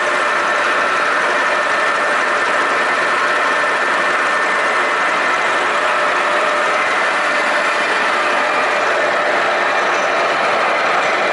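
Milling machine running steadily under load, its cutter machining steel: a constant loud mechanical noise.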